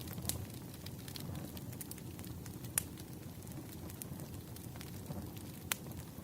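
Firewood burning with a steady low rumble and scattered crackles. Sharp pops come about three seconds in and again near the end.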